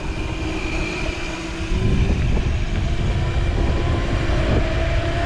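Electric dirt bike motor whining with a slowly rising pitch, under heavy wind rumble on the microphone while riding. The rumble gets louder about two seconds in.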